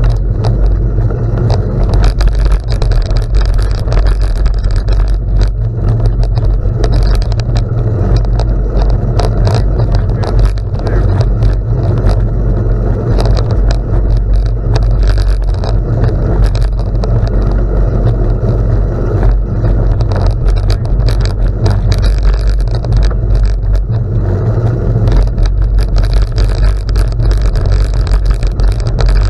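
Bicycle rolling fast on a gravel road: a steady heavy wind rumble on the microphone over a constant crunching and rattling of tyres on loose gravel.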